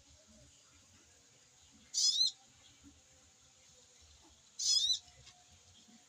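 Sogok ontong (a sunbird) giving two short, high, wavering chirps about two and a half seconds apart.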